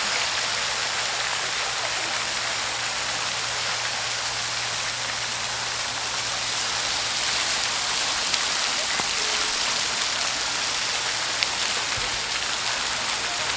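Steady rushing and splashing of falling water, the continuous spray of a water feature, with a faint low hum underneath that stops near the end.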